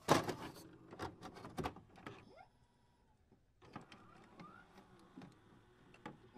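Faint, scattered clicks and short whirring, glitchy sound effects for an intro animation, with a brief silent gap about halfway through.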